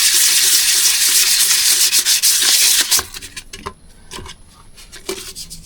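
Hand sanding of an engine component with fine wet-and-dry abrasive paper: a steady rubbing rasp that stops about three seconds in, followed by a few light clicks and taps.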